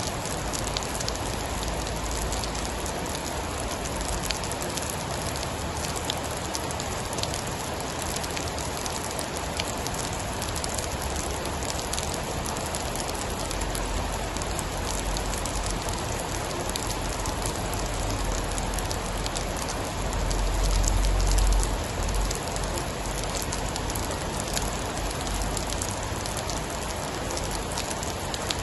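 Steady heavy rain, with scattered sharp drop ticks over an even hiss. About two-thirds of the way in, a low rumble swells briefly and then fades.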